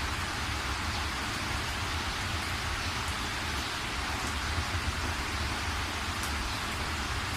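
Steady rain falling: an even hiss with a low rumble underneath and a few faint separate drop ticks.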